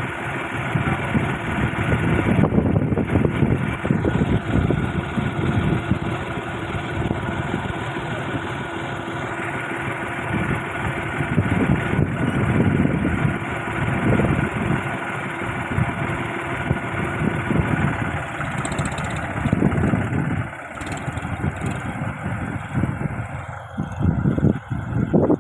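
Tractor engine running steadily while pulling a moldboard plough through dry soil. The sound grows uneven, with short dips, near the end.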